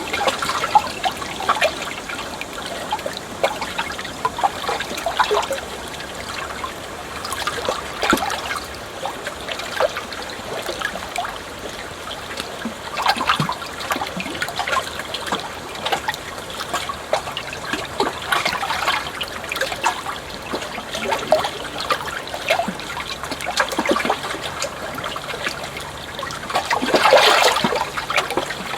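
Flowing water trickling and splashing, a steady wash broken by many small splashes, with a louder surge near the end.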